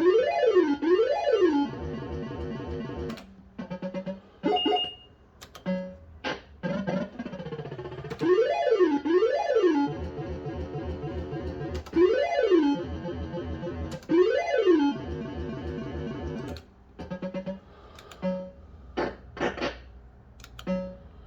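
Bell-Fruit Wild Cats System85 fruit machine playing its electronic sound effects: pairs of quick rising-and-falling synthesized sweeps repeated several times over steady beeping tones. Near the end come shorter separate beeps and clicks.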